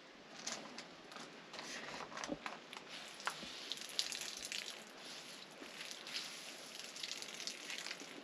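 Water squeezed by hand from a tea towel of grated potato and courgette, dripping and splattering irregularly onto a gravel floor, with faint squishing of the wet cloth.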